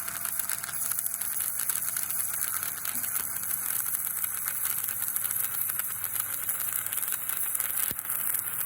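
Electric arc welding on thin square steel tube: a steady, dense crackling sizzle from the arc.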